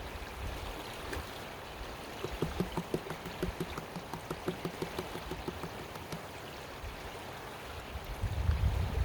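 Creek water flowing steadily. A run of short, quick ticks sits over it in the middle, and a low rumble comes near the end.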